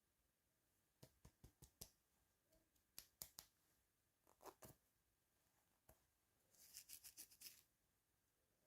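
Faint, scattered clicks and taps of small plastic toy pieces and packaging being handled, with a quick run of crisp ticks near the end.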